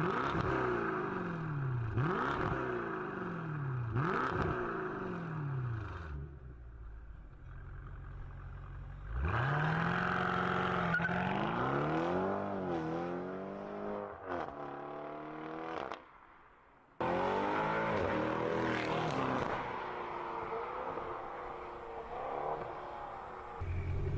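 BMW car engine being revved in repeated blips, each a rise and fall in pitch about two seconds apart, then held and wavered up and down; the sound breaks off for about a second partway through before the revving resumes.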